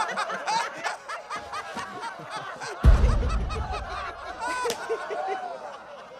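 Cartoon characters snickering and chuckling, with a sudden loud low boom about three seconds in.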